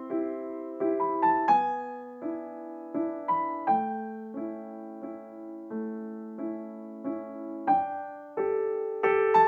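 Soft background piano music, slow chords and a simple melody with notes that strike and fade.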